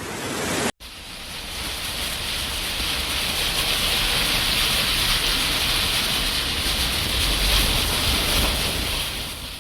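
Steady rushing noise of churning floodwater with a low rumble underneath. It begins after a brief break less than a second in and holds steady throughout.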